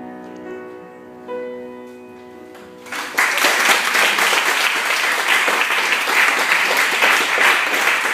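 The last sustained chords of a song's accompaniment fade out, then about three seconds in a group of listeners starts applauding, a steady clapping that continues to the end.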